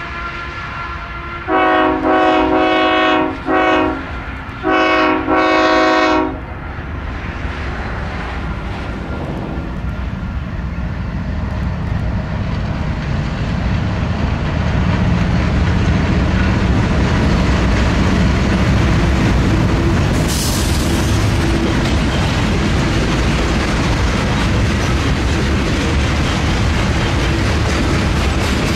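Freight train's diesel locomotive sounding its multi-chime air horn in several blasts, the last one long, then the train running past with a steady rumble and wheels clattering over the rail joints, the rumble growing louder. About two-thirds of the way through there is a brief high hiss.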